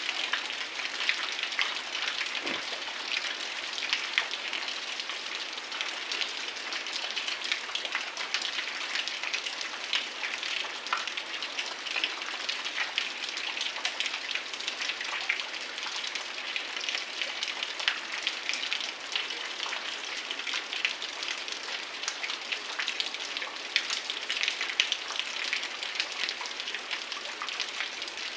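Heavy rain falling steadily, a dense patter of countless individual drops.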